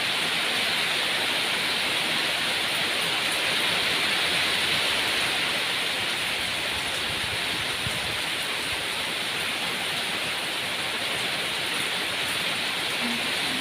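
Steady heavy rain, an even hiss with faint patter on top, easing slightly about halfway through.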